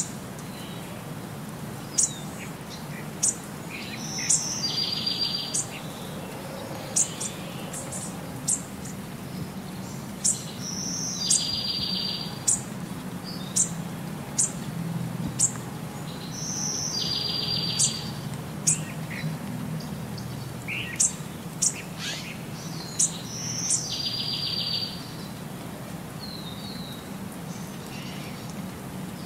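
Birds chirping: short, sharp, high chirps and a buzzy trill, the same phrase coming back about every six seconds, over a low steady hum.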